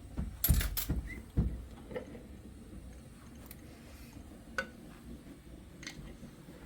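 Knocks and clatter of kitchen things being handled: a cluster of sharp knocks in the first second and a half, then a few light scattered clicks.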